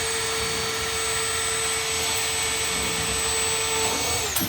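Electric power tool motor running at one steady high-pitched whine with a hiss over it, then winding down with falling pitch near the end.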